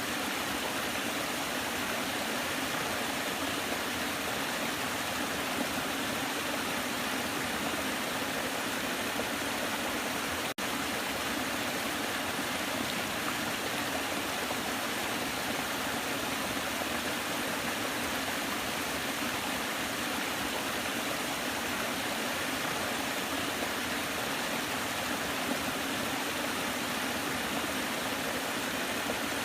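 Waterfall: water pouring and splashing in a steady, even rush, with a momentary dropout about ten seconds in.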